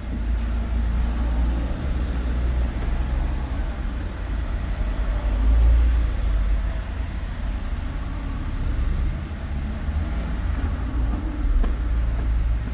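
Street traffic: motor vehicles passing with a steady low rumble and tyre noise, loudest about halfway through.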